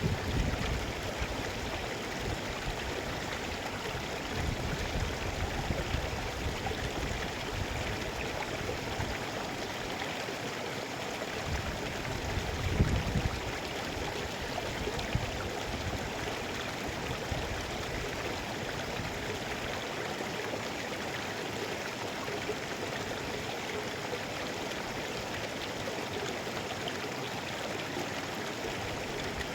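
Mountain river flowing in a steady full rush of water, with a few brief low rumbles, the loudest about 13 seconds in.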